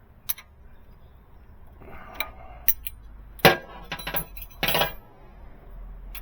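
Metal hand tools clinking and tapping against engine parts during a valve adjustment: several sharp separate clinks, the loudest about three and a half seconds in and a short cluster near the end.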